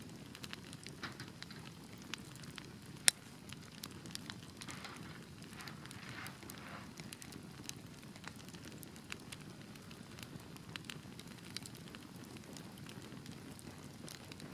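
Wood fire burning in a fireplace: a steady low rumble of flames with scattered crackles and pops, one sharp loud pop about three seconds in, and a brief hiss around the middle.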